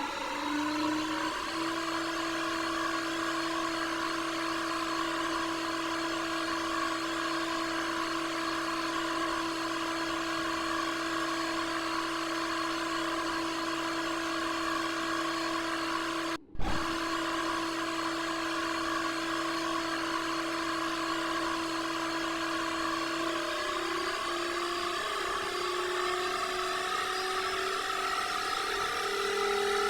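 Candy washing machine motor whining through its spin cycle: the pitch rises briefly as the drum speeds up, holds steady for most of the time, then starts climbing again near the end as the spin speeds up further. The sound cuts out for an instant about halfway through, with a click.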